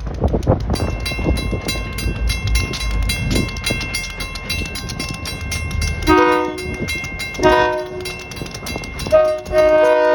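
Two EMD GP38-2 diesel locomotives running light, with a low engine rumble and a steadily ringing bell. From about six seconds in, the chime air horn sounds two long blasts, a short one and another long one: the grade-crossing signal.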